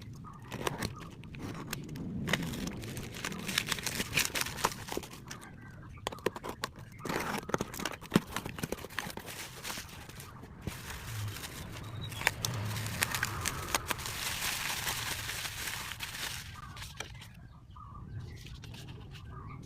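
Packaging being handled and opened: irregular crinkling, rustling and tearing of plastic wrap and box material, with scattered sharp clicks and a longer stretch of tearing or rustling near the end.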